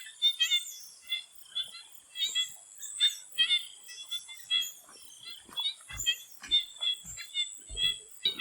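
Swamp frogs calling in chorus: short, pitched calls overlap several times a second, over a steady high insect tone. A few soft low thumps come in the second half.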